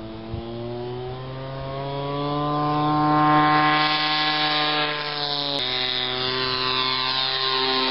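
Engine of a large radio-controlled Cessna 182 model plane running in flight, growing louder as it comes closer. About five and a half seconds in, its pitch drops suddenly as the throttle is pulled back.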